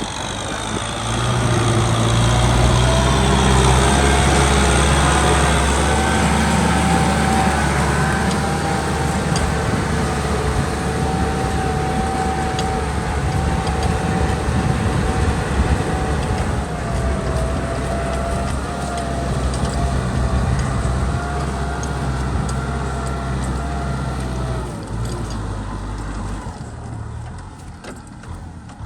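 Kubota M6040 tractor's four-cylinder diesel engine running steadily with a thin whine over its low hum. It grows louder about a second in and eases off near the end.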